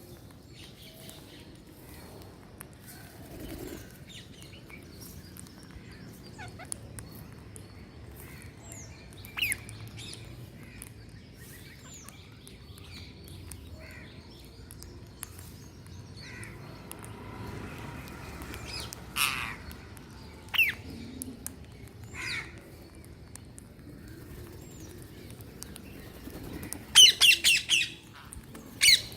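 Green parrots calling: scattered single sharp squawks, then a burst of rapid, harsh repeated calls near the end.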